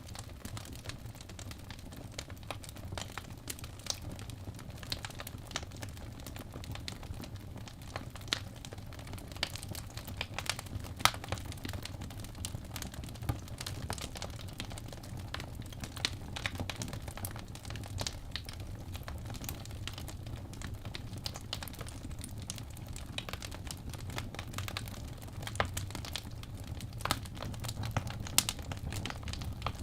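Wood fire burning in a fireplace: irregular sharp crackles and pops of the burning logs over a steady low rumble of the flames.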